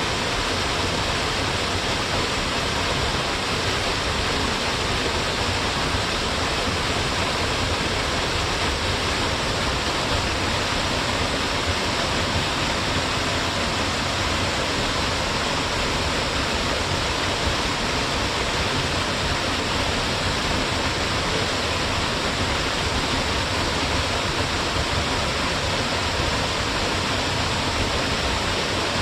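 Waterfall, a narrow fall dropping straight down in a single line, with water rushing steadily and evenly without a break.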